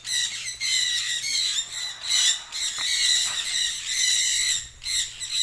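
Many birds calling at once: a dense, steady chorus of overlapping high-pitched squawks and chirps.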